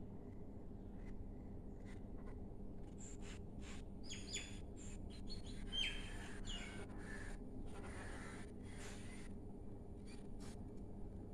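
Small birds chirping in short, high calls, busiest in the middle of the stretch, over a steady low background noise.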